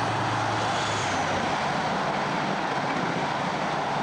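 InterCity 125 High Speed Train passing at speed: the leading Class 43 power car's Paxman Valenta diesel engine drones with a high turbocharger whine that drops slightly in pitch as it goes by, followed by the steady rush of the coaches rolling past.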